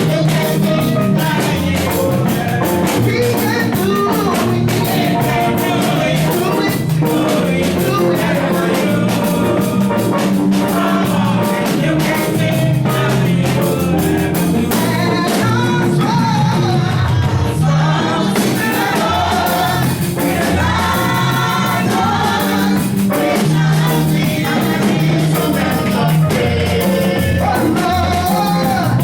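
Gospel music: a group of voices singing over a steady percussion beat with tambourine.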